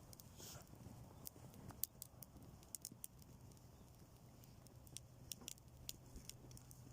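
Bonfire crackling faintly: scattered, irregular sharp snaps and pops over a faint steady low hum.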